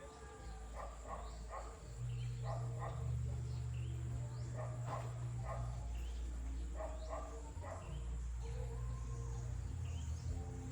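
Small birds chirping in short, repeated calls, with a steady low rumble underneath.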